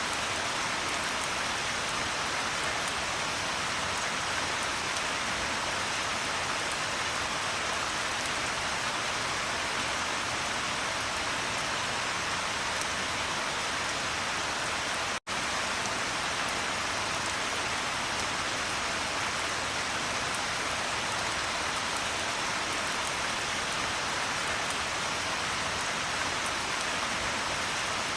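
Steady heavy rain falling, an even hiss with no thunder. It cuts out for a split second about halfway through, then carries on unchanged.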